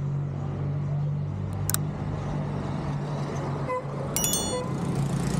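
A car engine running steadily amid street traffic, overlaid with a sharp mouse-click sound effect about two seconds in and a bright bell-like notification chime about four seconds in.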